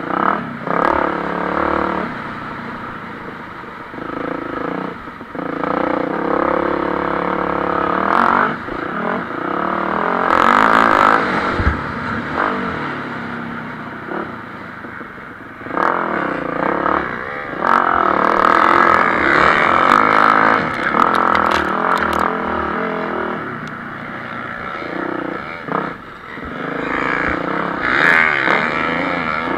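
MX1-class motocross bikes racing on a dirt track, their engines revving up and down through acceleration and gear changes. The sound swells loud as bikes come past, strongest around a third of the way in, just past the middle, and near the end.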